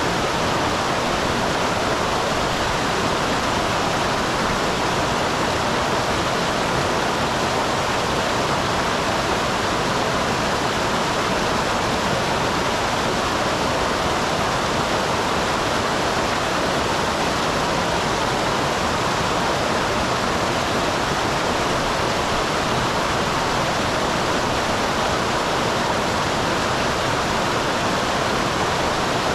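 Small waterfall on a mountain stream: water pouring and splashing in a steady, unbroken rush.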